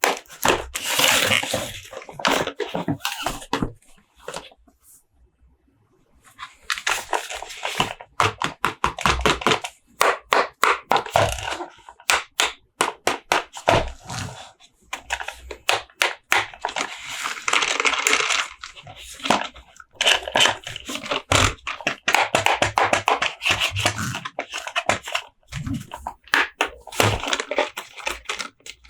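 Hands unboxing a toy: plastic and cardboard packaging crinkling, rustling and clicking, with many quick sharp clicks and a short pause about four seconds in.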